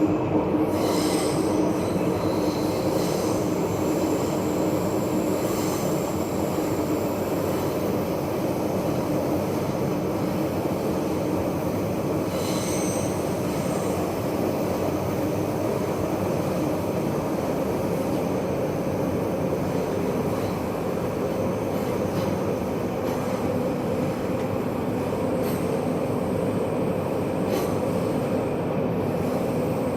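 Taipei Metro train running steadily on the Zhonghe–Xinlu line: a continuous rolling rumble of wheels on track, with brief faint high-pitched wheel squeals near the start and again about twelve seconds in.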